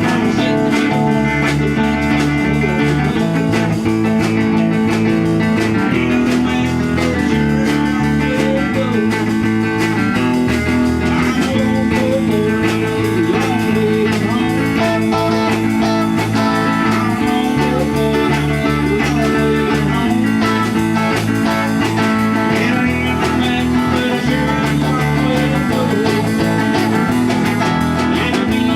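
A band playing an instrumental blues-rock passage: guitar lead over a steady bass line and drums.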